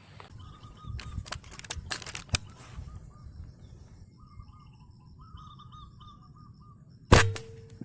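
Small birds chirping in short repeated calls, then about seven seconds in a single sharp, loud crack with a brief ringing tone after it, in keeping with a shot from a PCP air rifle.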